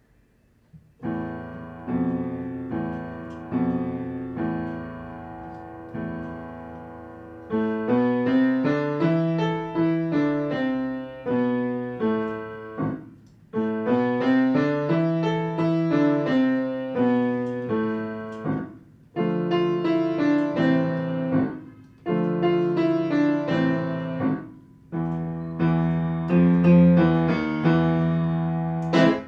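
Piano playing: a few seconds of slow repeated chords, then livelier phrases broken by short pauses.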